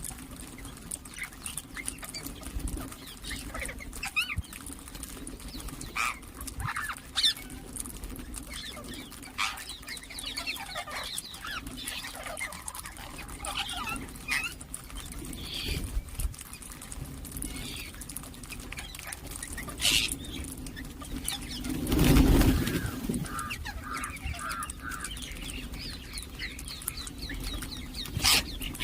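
Ring-necked parakeets giving short, sharp chirps and calls, scattered irregularly, over a steady low hum. There is one loud, dull thump about two-thirds of the way through.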